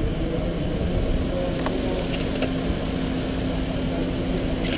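Yamaha R1 sport bike's engine idling steadily, with a few faint clicks over it.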